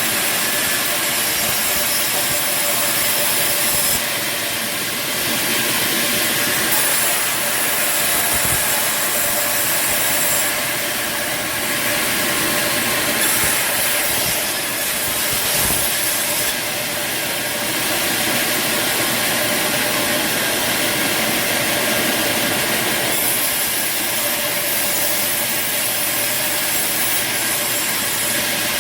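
Bandsaw sawmill running and cutting timber: a steady, loud mechanical noise with a faint whine, changing character abruptly several times.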